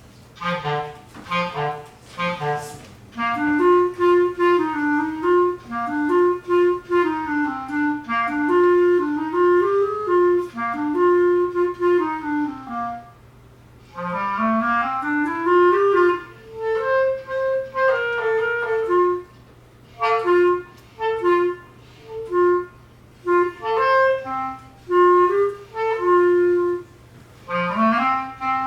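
Clarinet playing a quick melody of short, separated notes, with a brief pause about 13 seconds in before the line picks up again.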